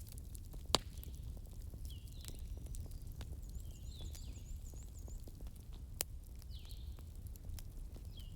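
Wood fire in a fireplace crackling over a steady low rumble, with scattered small crackles and a louder pop about a second in and again near six seconds. Faint high chirps repeat every second or two in the background.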